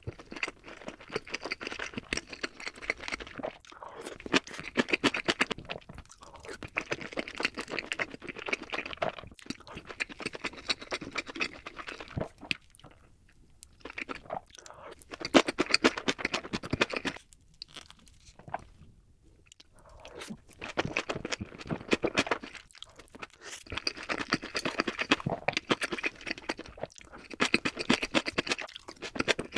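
Close-miked crunching and chewing of crispy sweet Korean fried chicken, sped up to double speed, coming in bouts of a few seconds with short pauses between bites.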